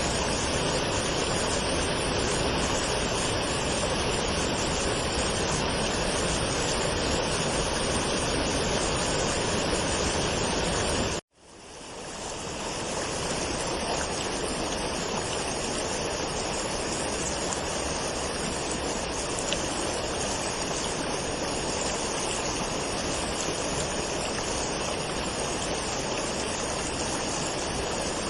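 Waterfall: steady rushing and splashing of falling water. About 11 seconds in, the sound cuts out abruptly and fades back in over a couple of seconds, like an edit or loop join in the recording.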